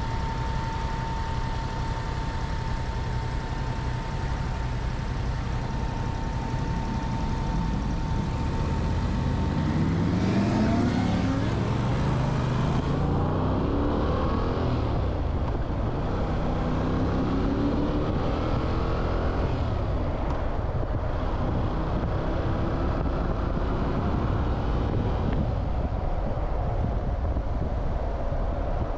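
Motorcycle engine running with steady wind and road noise. From about nine seconds in it accelerates, its pitch rising in three or four sweeps that drop back between them as it shifts up through the gears. A thin steady whine sounds through the first several seconds.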